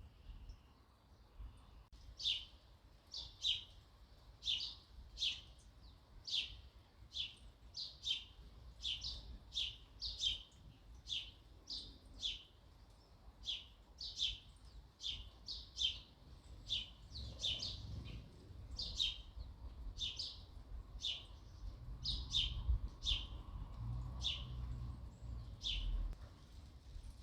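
Sparrow chirping over and over, short sharp chirps at about two a second, starting about two seconds in. A low rumble sits underneath in the second half.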